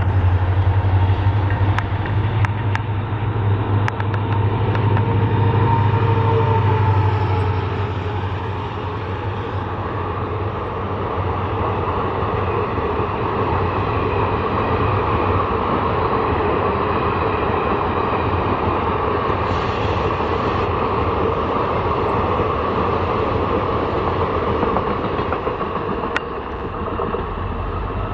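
EMD WDP-4 diesel locomotive, a two-stroke V16, passing at speed: a strong deep engine throb for the first seven seconds or so. It gives way to the steady rumble of the passenger coaches' wheels running by on the rails, with a few faint clicks.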